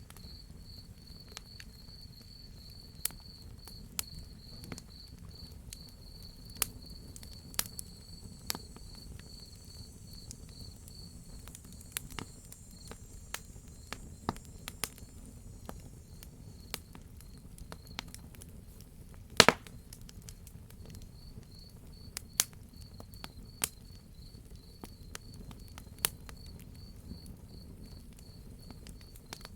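A wood fire crackling with irregular sharp pops, one much louder than the rest about two-thirds of the way through, over a low steady rumble. A cricket chirps in a fast, even, high-pitched trill that fades for a few seconds in the middle.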